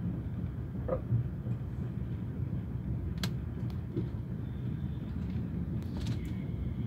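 Steady low rumble of a TGV train running on the rails, heard from inside the carriage, with a few faint clicks and creaks, the sharpest about three seconds in.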